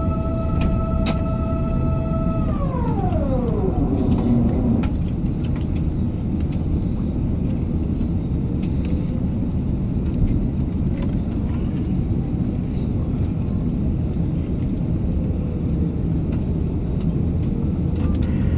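Airbus A350 cabin noise on the ground after landing: a steady low rumble, with a high whine of several tones at the start that drops steadily in pitch and dies away between about two and five seconds in. Faint light clicks and rattles are scattered throughout.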